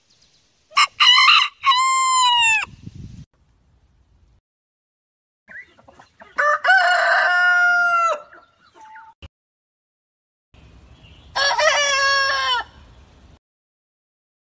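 Rooster crowing three times, each long crow lower in pitch than the one before.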